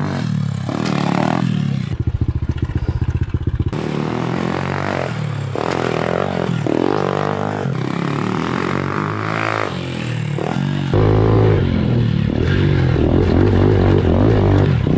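Pit bike engine revving up and down as the bike is ridden on a dirt track, its pitch rising and falling with the throttle. About two seconds in it chugs at low revs for a couple of seconds, and it gets louder with a heavier low rumble from about eleven seconds in.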